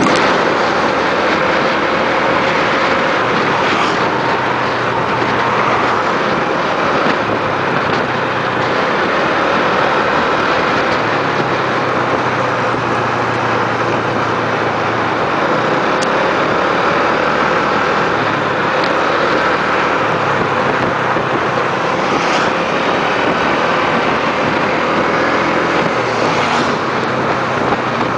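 Motorbike engine running steadily while riding, its pitch drifting gently up and down, under a loud, constant rushing noise.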